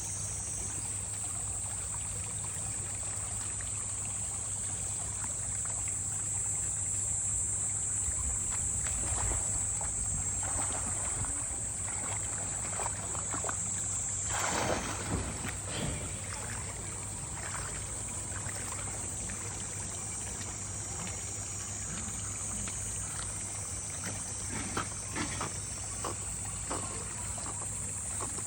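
Water sloshing and splashing as a Shiba Inu swims, with a louder splash about halfway through and a steady high hiss behind it.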